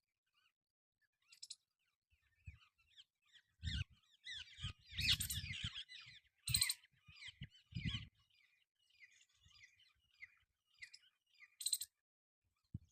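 Birds chirping, with many short high calls throughout. A few low thumps come in the middle, and sharp clicks sound three times.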